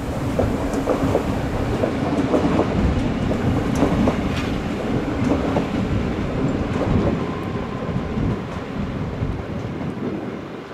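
Train rolling slowly over rail joints and points, its wheels clicking irregularly over a steady drone from the drive. A faint whine joins in about halfway through.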